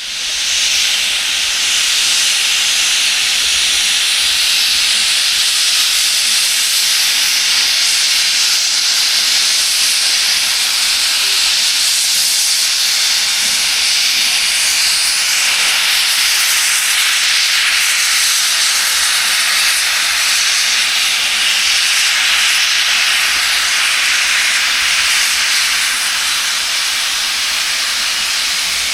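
Class 01 steam locomotive 01 066 venting steam: a loud, steady hiss that starts suddenly and keeps up unbroken, with no whistle tone.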